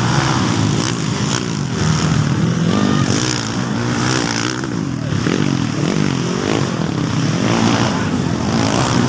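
Several motocross bike engines racing, revving up and easing off again and again, their pitches rising and falling over one another.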